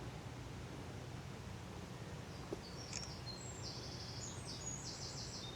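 A small songbird singing high, rapid trilled phrases, starting about three seconds in, over a low steady background rumble.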